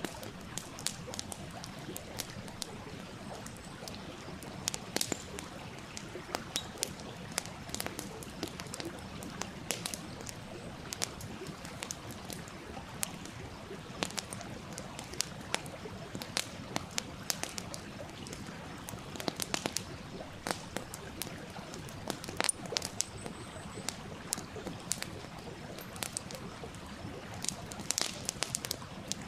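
Wood campfire crackling, with frequent sharp pops and snaps, over the steady rush of a small stream.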